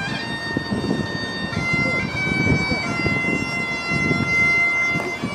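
Bagpipes playing a slow tune, held notes stepping from one pitch to the next, with voices underneath.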